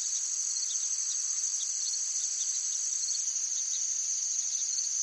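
Forest ambience of a dense insect chorus trilling steadily at a high pitch, with faint short chirps scattered through it.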